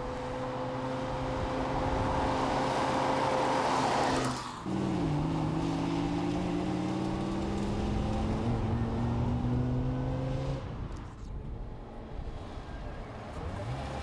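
A Connaught prototype sports car's supercharged V10 engine running as the car drives by, heard across several cuts. First comes a steady engine note with growing road and wind noise. After a sudden cut, the engine note climbs slowly in pitch as the car accelerates. It drops quieter for a few seconds near the end.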